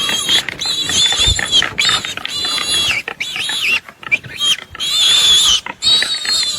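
An animal squealing in a run of high-pitched calls, about seven, each around half a second long and bending up and down in pitch.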